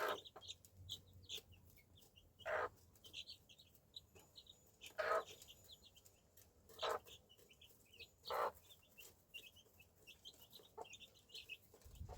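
Chickens clucking, five short calls a couple of seconds apart, over constant high-pitched chirping.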